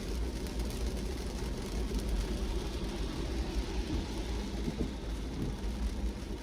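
A car driving in the rain: a steady low rumble of engine and tyres on the wet road under an even hiss of rain.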